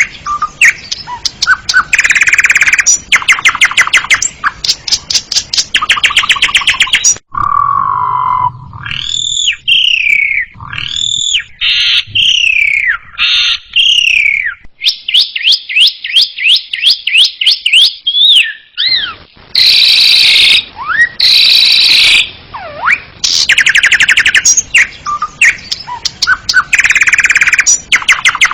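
Asian pied starling (jalak suren) singing: long runs of fast rattling chatter, broken in the middle by a string of loud whistled notes that glide up and down.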